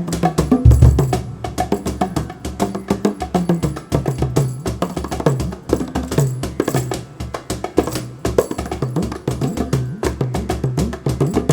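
Live hand-drum percussion duet mixing Cuban and Indian drums (bongos, cajon, tabla, kanjira), playing a dense, fast rhythm of strokes with repeated low pitched drum notes. A heavy low stroke lands about a second in.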